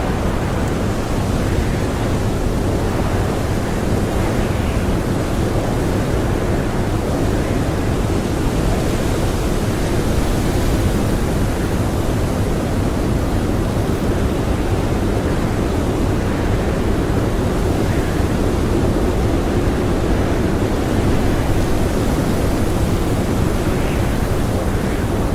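Strong blizzard wind blowing steadily, a dense rushing noise that is heaviest in the low end, without breaks or gusts that stand out.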